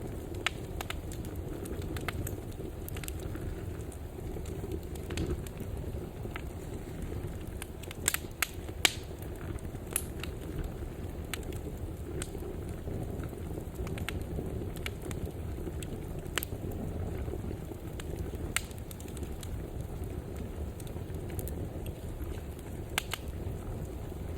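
Wood fire burning in a fireplace: a steady low rumble of flames with irregular sharp crackles and pops, a few louder pops about eight to nine seconds in.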